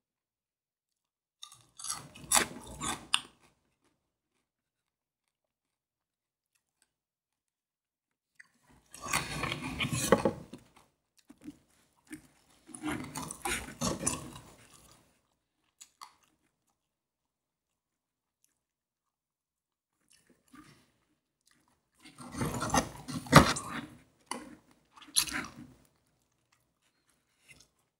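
Crisp crunching in about five bursts of one to three seconds each, separated by silence: crispy fried chicken being bitten and chewed close to the microphone.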